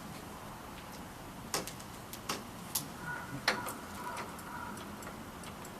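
Irregular sharp clicks and taps, about a dozen, with a faint steady tone for roughly two seconds past the middle; the clicks fit switches and controls being worked on the motorcycle during an electrical check, with the engine not running.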